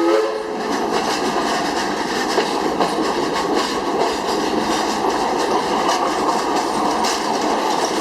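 Narrow-gauge steam train's whistle cutting off just after the start, then the steady running and clickety-clack of the passenger cars rolling along the track, heard from on board.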